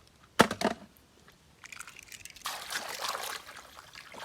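A sharp knock and brief rattle of a toy car being handled, then water pouring and splashing steadily over the toy as it is washed.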